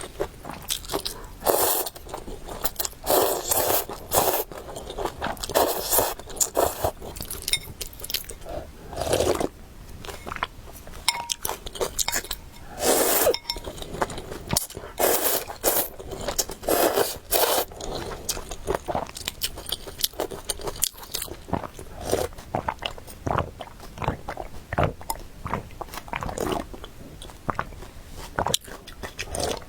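Close-miked eating sounds: a person biting, crunching and chewing food in quick, irregular bites, with the scrape of utensils.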